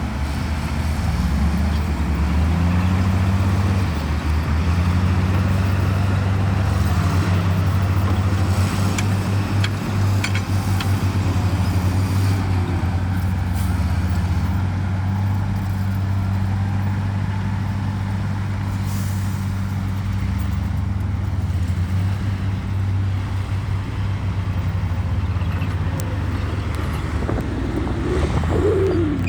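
Heavy diesel engine of earthmoving machinery running under load, its pitch stepping up and down as the throttle changes, with a brief rising and falling whine near the end.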